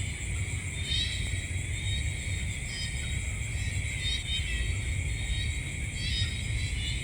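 Night insect chorus: a steady high-pitched trill over a low rumble, with short chirping calls every second or two.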